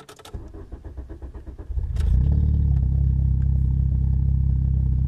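Volkswagen Jetta Mk3 engine being started: the starter cranks with a rapid pulsing for under two seconds, then the engine catches about two seconds in and settles into a steady idle. This is the first start after the fuel pump was refitted.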